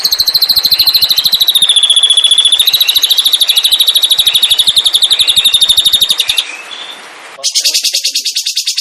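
A songbird's long, very fast trill of rapidly repeated notes on a nearly steady high pitch, dipping slightly about two seconds in. It breaks off about six and a half seconds in, and near the end a second rapid trill, broader and a little lower, takes over.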